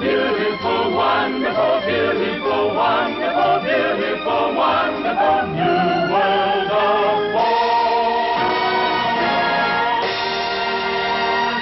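Jingle music sung by a choir with orchestra, ending on a long held final chord.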